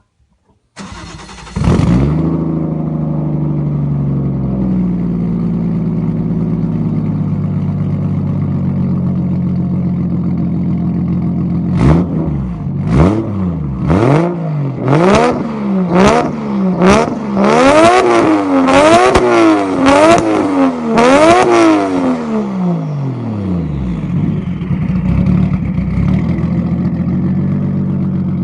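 Toyota JZX100's 1JZ straight-six with a fully straight-piped exhaust and no catalytic converter, starting up about a second in. It runs a fast idle that settles lower over a few seconds, then idles steadily. About twelve seconds in it is revved in about ten short blips, roughly one a second, then drops back to idle.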